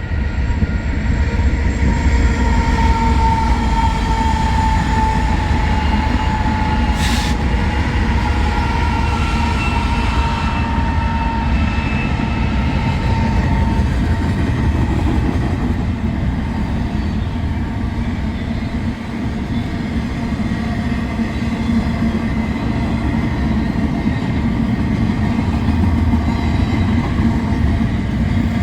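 Freight train rolling past close by: a loud, steady rumble of wheels on rail, with high-pitched whining tones that slowly sink in pitch over the first half and one sharp clank about seven seconds in.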